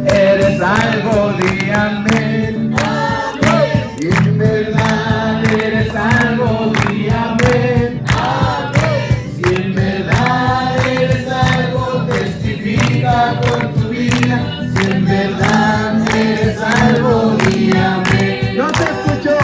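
A group of voices singing a worship song together over a steady rhythmic beat.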